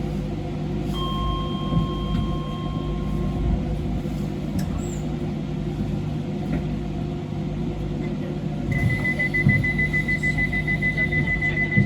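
A DLR light-metro train stands at a station platform with its steady electrical hum. About a second in, two steady tones sound for a couple of seconds. From about nine seconds in, a rapid even beeping starts: the warning that the doors are about to close.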